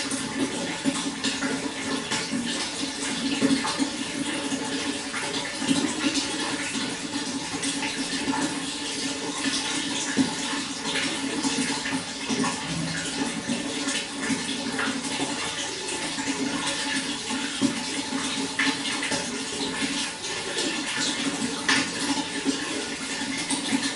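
Running water flowing steadily, with many small splashes breaking through the rush.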